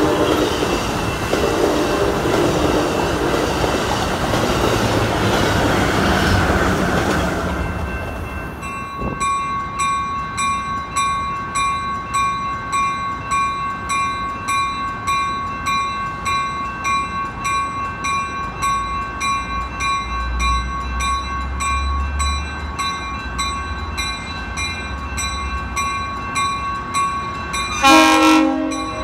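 A train passing close with its horn sounding in the first seconds. The sound then changes abruptly to a railroad grade-crossing bell ringing steadily at about two strikes a second, with a low locomotive rumble building and a short horn blast near the end.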